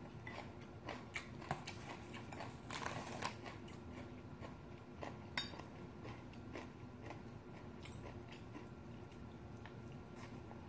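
Faint eating sounds: chewing and small mouth clicks, with scattered light clicks of chopsticks and a wooden spoon against ceramic bowls.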